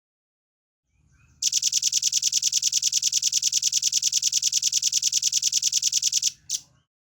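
Rambatan paruh merah (velvet-fronted nuthatch) singing a fast, even, high trill of about ten notes a second for about five seconds, followed by one short note.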